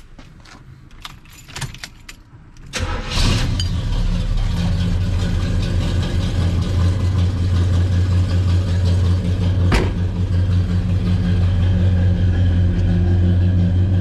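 A few light clicks. Then a 1985 Chevrolet Monte Carlo SS's V8 cranks briefly and catches about three seconds in, settling into a steady idle. One sharp click comes later over the idle.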